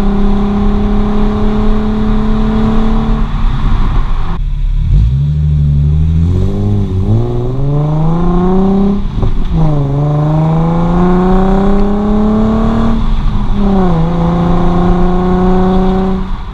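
Nissan 370Z Nismo's 3.7-litre V6 through an Invidia Gemini exhaust with high-flow cats, driven hard: the note holds steady, falls away as the throttle eases, then climbs in pitch under acceleration, dropping sharply at two upshifts, about nine and thirteen seconds in, before settling at steady revs.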